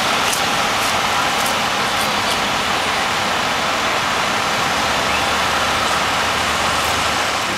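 Steady street traffic noise: the even hiss and rumble of passing vehicles.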